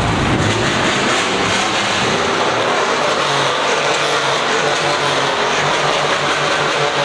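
Car engine running, with a low rhythmic pulsing that starts about three seconds in, over a steady wash of loud background noise.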